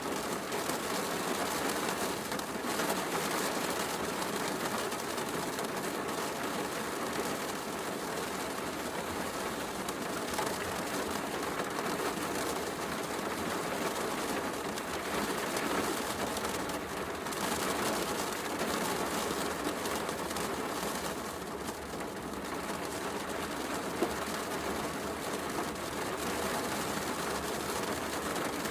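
Steady heavy rain mixed with a wood fire crackling, with one sharper pop from the fire late on.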